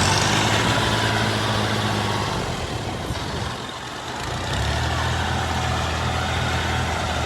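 Old combine harvester's diesel engine running steadily under a wide mechanical noise; about four seconds in its note briefly drops away and then settles at a lower pitch.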